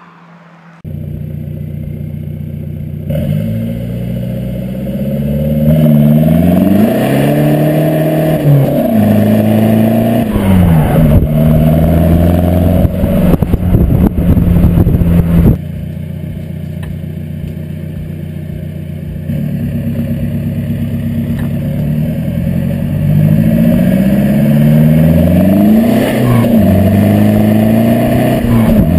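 Seat Leon 2.0 TDI four-cylinder diesel with an open, straight-through exhaust, running and being revved: the engine note rises and falls in several revs, is held high for a few seconds in the middle, drops back to a steady idle, then revs up again near the end.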